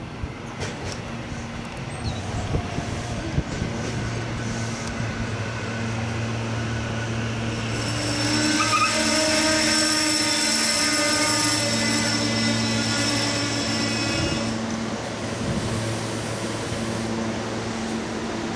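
Train passing on the rails: a steady low hum that grows louder, peaking from about eight to fifteen seconds in with a thin high ringing over it, then easing off.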